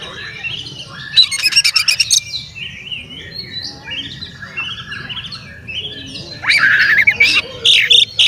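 Oriental magpie-robin (kacer) singing a varied song of quick whistled phrases, with a loud burst of rapid rattling notes about a second in and a longer, louder run of song near the end.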